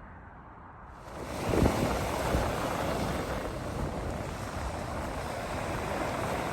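Steady rushing noise with a low rumble, starting abruptly about a second in.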